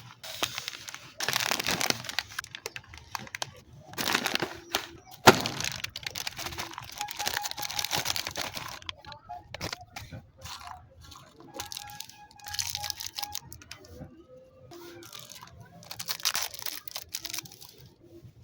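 Plastic snack wrapper being torn open and crinkled in several bursts of rustling, with one sharp snap about five seconds in.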